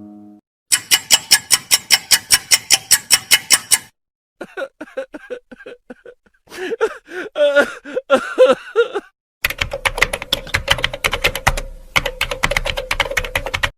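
A sequence of short sound-effect clips: a fast run of typing-like clicks at about eight a second, two brief warbling pitched sounds, then more rapid clicking over a steady hum.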